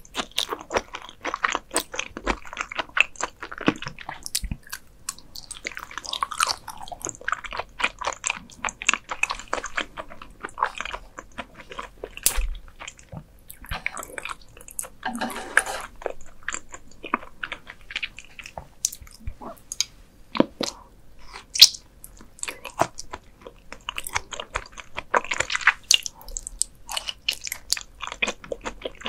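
Beef spinal cord being chewed with the mouth close to the microphone. Many short, sharp mouth clicks run throughout.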